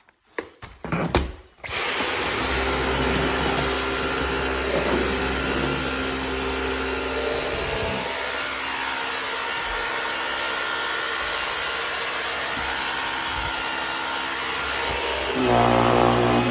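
A few handling clicks, then a Dyson V11 Animal cordless stick vacuum starts abruptly and runs steadily with a high-pitched whine and rushing air.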